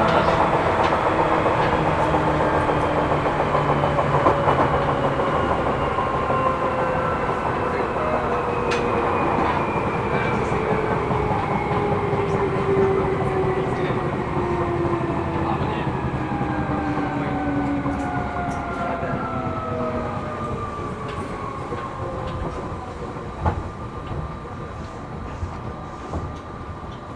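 Cabin noise of a Seibu New 2000 series electric train slowing down: the traction-motor whine slides steadily down in pitch and the running noise fades as it brakes. Wheel-on-rail clatter runs underneath, with the knock of flat spots on the wheels.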